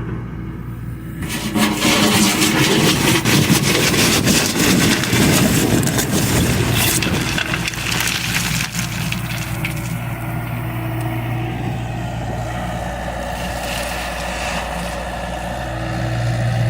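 John Deere excavator's diesel engine running steadily under work, with a loud stretch of scraping and rattling from about a second in until about nine seconds in.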